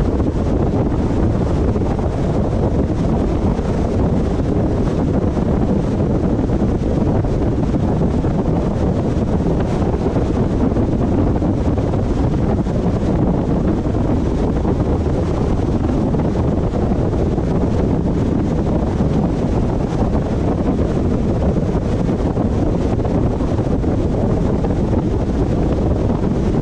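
Steady wind rush and road noise from a car driving at speed, a low, even roar with wind buffeting the microphone.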